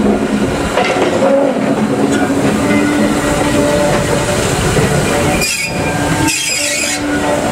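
Train running on the rails, with a continuous rumble and steady motor tones. A short hiss comes twice near the end.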